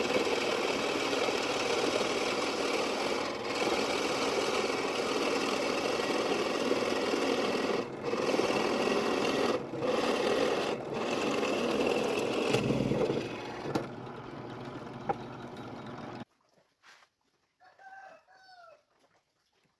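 A woodworking power tool running on wood with a steady, dense noise and a few brief dips, then easing off after about 14 seconds and stopping about two seconds later. A few faint short chirping calls follow near the end.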